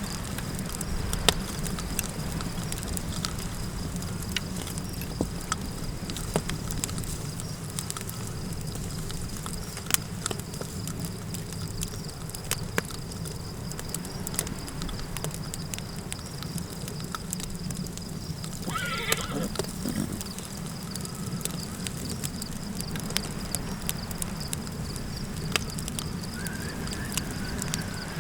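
Campfire crackling, with scattered sharp pops over a steady low wind rumble and a constant high insect tone. About 19 seconds in, a short animal call rises briefly above the fire.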